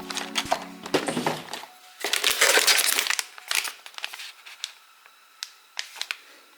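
Packaging crinkling as a coffee steep-bag packet is handled: a loud crinkle from about two to three seconds in, then a few lighter rustles and clicks.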